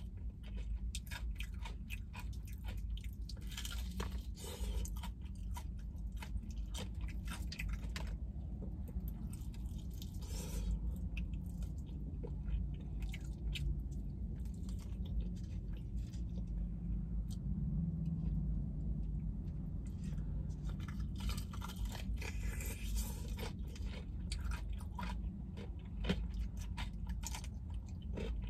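Close-up chewing and crunching of crispy Popeyes fried chicken, with rapid crunchy bites in the first several seconds and again near the end, and softer, sparser chewing in between.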